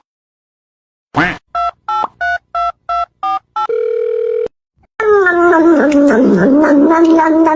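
Telephone keypad tones: seven short beeps in quick succession, then a steady tone lasting under a second. About five seconds in, a long, wavering, voice-like cry starts and keeps going.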